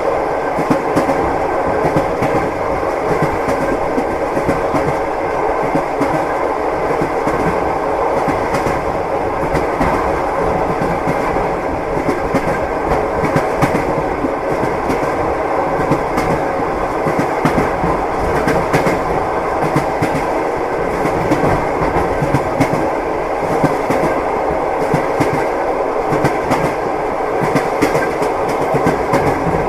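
Train wheels clacking over rail joints with the steady rumble of a moving train, scattered short knocks running through it.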